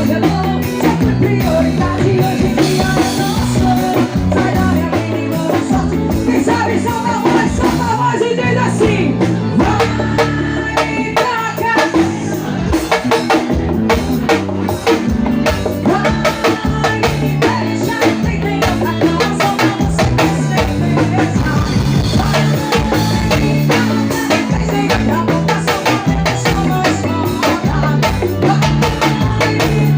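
Live forró band playing loud, with a steady drum-kit beat and bass.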